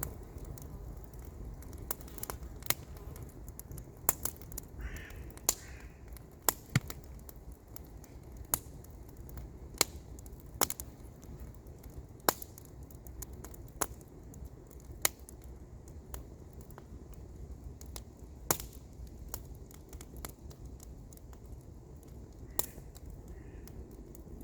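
Wood campfire crackling, with irregular sharp pops and snaps every second or so over a low steady rumble.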